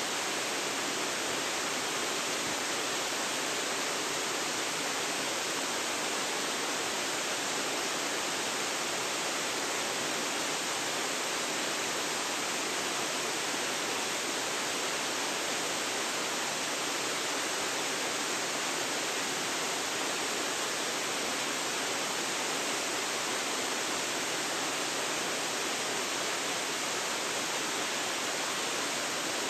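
Waterfall, a steady, even rush of falling water with no change in level.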